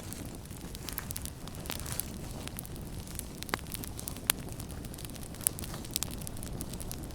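Campfire burning with a steady low rumble and irregular sharp crackles, with a few louder pops scattered through.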